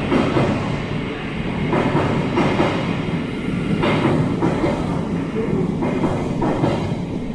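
Thameslink Class 700 electric multiple unit running through an underground platform. Its wheels rumble steadily on the rails and clack over rail joints every second or so.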